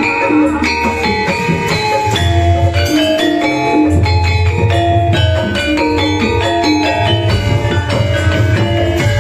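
Javanese gamelan music played loud through a sound system: bronze metallophones and gongs struck in quick interlocking notes over a deep drum beat.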